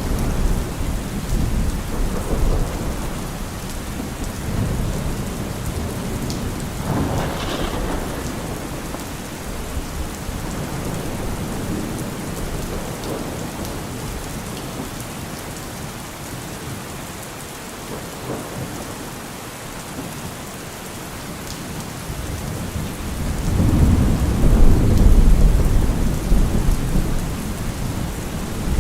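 Heavy rain pattering steadily on a car roof, with low rolling thunder underneath; a louder roll of thunder swells up about 24 seconds in and fades again.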